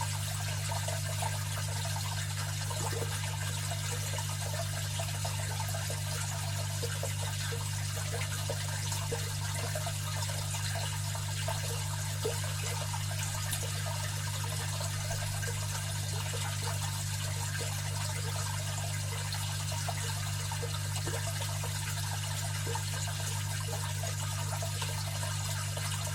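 Aquarium filter running: water trickling and splashing steadily over a constant low hum.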